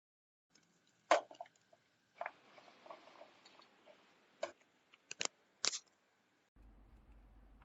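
Handling noises: a handful of sharp clicks and knocks at irregular intervals, the loudest about a second in, with no motor running.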